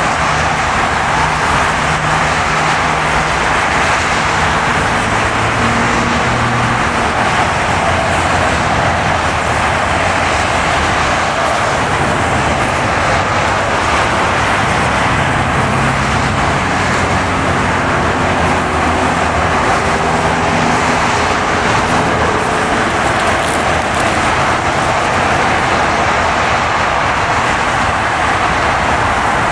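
Car driving on a snowy road: a steady engine hum whose low pitch drifts slowly up and down as the speed changes, under a constant hiss of tyres on the wet road.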